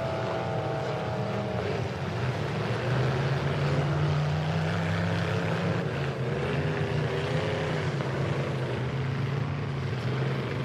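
Demolition derby full-size trucks' engines running, growing louder about three seconds in, with an engine revving up and down about six to eight seconds in.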